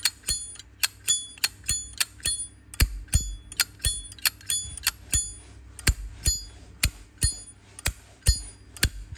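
Brass Zippo lighter lid flicked open and snapped shut over and over: sharp metallic clicks, about two to three a second, many of them carrying a clear high bell-like ring, "rất là beng", the crisp lid-and-cam sound of a healthy original Zippo.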